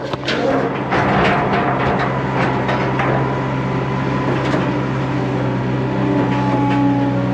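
An engine running steadily at an even pitch, with a few knocks in the first few seconds.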